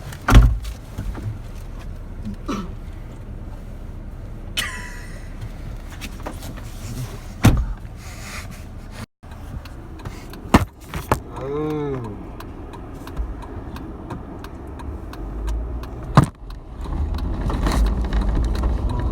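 Car doors thumping shut and other knocks, with small rattles. A car engine running louder near the end.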